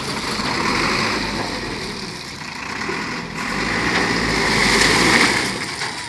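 Tata LPT 1109 truck's diesel engine running, its sound swelling twice, about a second in and again near the end.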